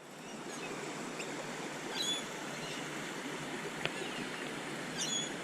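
Steady rush of flowing river water fading in, with birds chirping a few short high calls over it.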